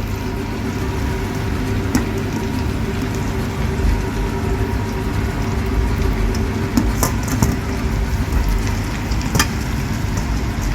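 Stir-fry cooking: a steady low kitchen roar with frying in the pan as boiled noodles go in with the chicken and vegetables. A few sharp utensil clicks come about two seconds in, around seven seconds and near nine and a half seconds.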